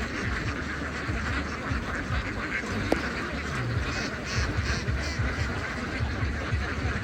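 A large flock of domestic ducks quacking continuously, many voices overlapping into a steady chatter, with a single sharp click about three seconds in.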